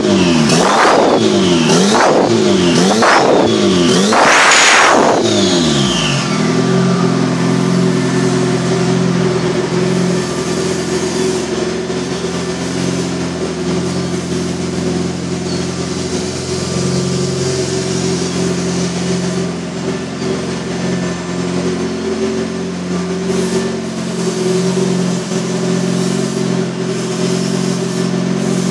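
Turbocharged engine of an off-road buggy blipped in short revs about once a second, the last one higher and longer, then settling after about six seconds into a steady idle.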